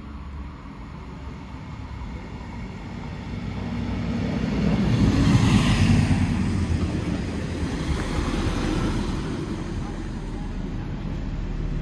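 Siemens Desiro Classic diesel multiple unit running into the station. The engine and wheels on the rails grow louder as it approaches, are loudest as it passes close about five to six seconds in, then ease off as it rolls on along the platform.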